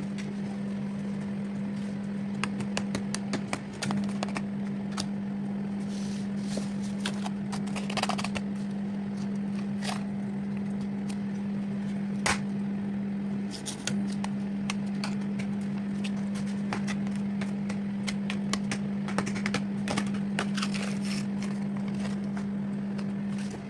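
Microwave oven running: a steady hum with scattered faint clicks and crackles, dipping briefly twice, about 4 and 14 seconds in.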